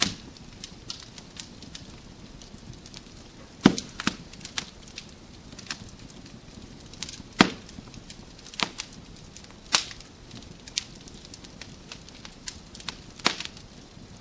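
Wood fire crackling in a fireplace: irregular sharp pops and snaps over a soft steady hiss, with a handful of louder pops standing out, one at the very start and others about four, seven, ten and thirteen seconds in.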